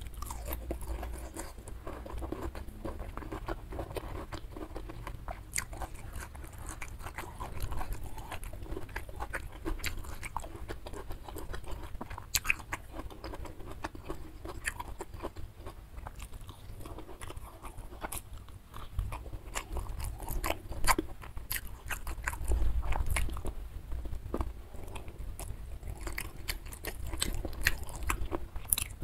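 Close-miked eating: a person chewing and biting mouthfuls of rice, beef rendang and vegetables eaten by hand, with many sharp wet mouth clicks and small crunches.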